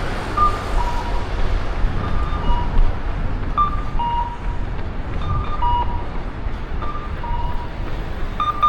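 An electronic two-tone chime, a higher note then a lower one, repeating about every second and a half over a steady low street rumble of traffic.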